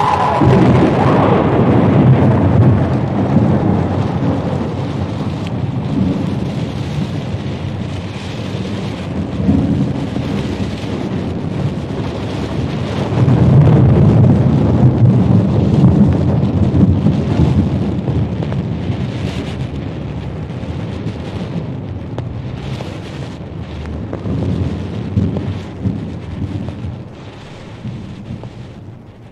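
Thunderstorm: long rolling thunder rumbling over steady rain, swelling twice and fading out at the end.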